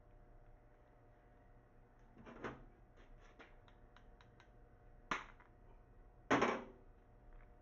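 Hard parts being handled: a soft knock, a run of small quick clicks, then a sharp click and a louder knock near the end.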